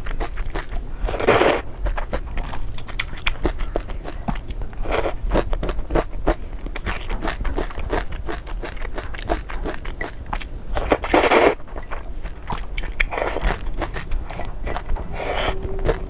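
Close-miked crunching and crackling with dense small clicks, broken by about six short, louder rustling bursts, the first about a second in and another near the end.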